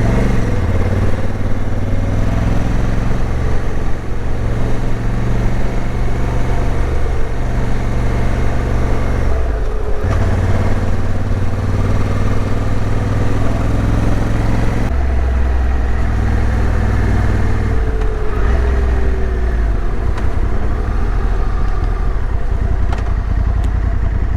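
Motorcycle engine running under way, its pitch shifting a few times with throttle and gear changes, over a steady rush of wind noise.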